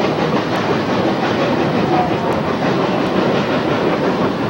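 Steady rumble and clatter of a narrow-gauge railroad passenger car rolling along the track, heard from aboard the moving train.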